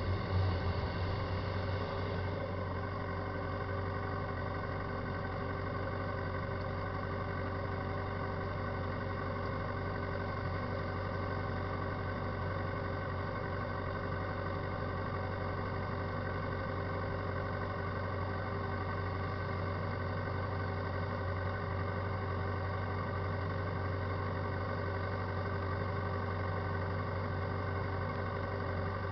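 Steady mechanical drone from a Yamaha FZ6 S2 motorcycle, the front-wheel noise that the owner puts down to a wheel bearing problem. A little louder in the first couple of seconds, then even.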